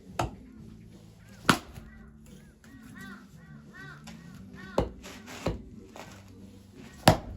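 Axe chopping firewood: five sharp, separate strikes, the loudest about a second and a half in and just before the end.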